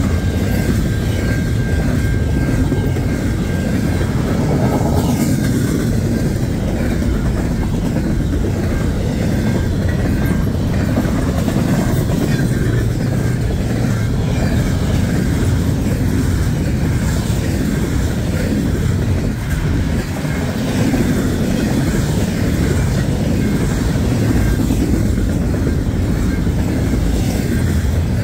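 Double-stack container well cars of a long, fast intermodal freight train rolling past: a loud, steady rumble of steel wheels on the rails with occasional clanks. A faint high steady tone sounds during the first five seconds.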